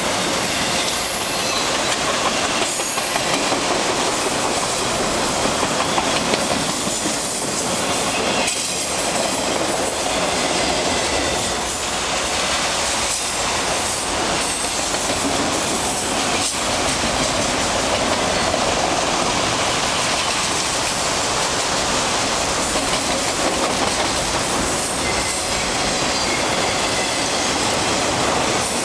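Long freight train of autorack cars rolling past: steady loud noise of steel wheels on rail, with occasional knocks from the wheels and couplers.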